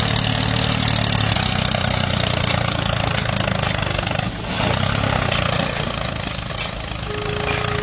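Motor of a home-built mini tractor running steadily, with a brief dip about four seconds in.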